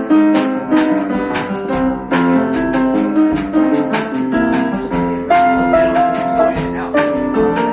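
Live jazz band playing an instrumental passage, guitar and piano over regular percussive hits.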